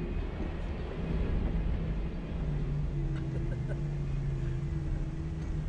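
Jeep engine running steadily at low revs, a continuous low drone.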